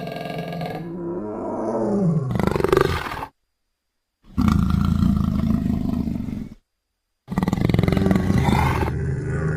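Big-cat roar sound effects for the extinct sabre-toothed Barbourofelis, mixed from lion, leopard and Smilodon sounds: a long call that falls in pitch and breaks off about three seconds in, then two separate roars of about two seconds each, with short silences between.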